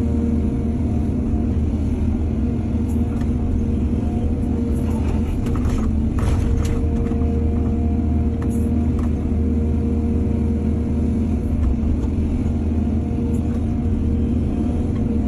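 Excavator's diesel engine running steadily with a deep rumble, with a few short scrapes and knocks from about five to nine seconds in.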